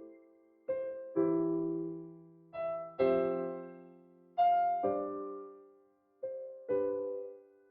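Background music: slow, gentle piano chords, a new one struck every second or two and left to ring out and fade.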